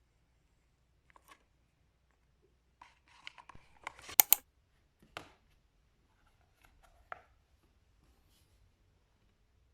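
Scattered small clicks and rustles of objects being handled, in a quiet small room. The loudest are two sharp clicks about four seconds in.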